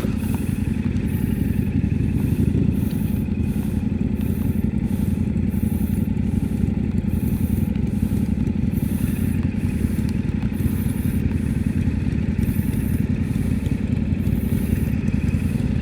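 Motorcycle on the move, its engine running at a steady speed with no change in pace.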